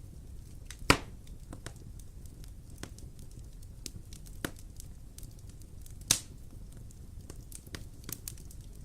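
Wood fire crackling in a fireplace, scattered small snaps over a low rumble, with two loud pops, one about a second in and one about six seconds in.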